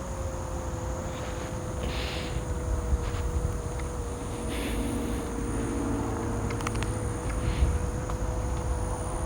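Electric kick scooter riding along: a steady hub-motor whine over wind and tyre rumble.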